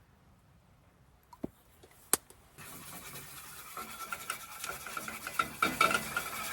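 Two sharp clicks, then from about two and a half seconds in a dense crackling sizzle mixed with the scrape and clink of a utensil stirring food in a pan.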